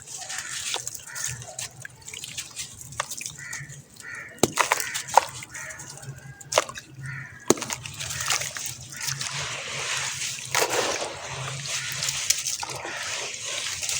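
Dried sand-cement shapes crumbling in water, with sloshing and dripping. A few sharp cracks come between about four and eight seconds in, then a denser, steady crumbling hiss.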